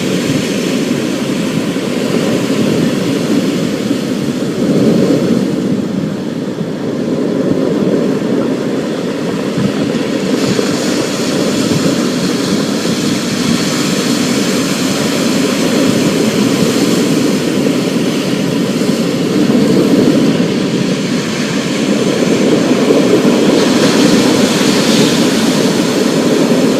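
Thunderstorm ambience: a steady low roar of rain and wind with a deep rumble that swells and eases every few seconds.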